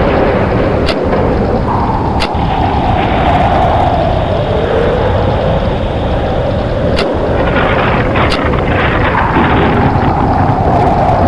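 Thunder rolling and rumbling loudly without a break, with a few sharp cracks.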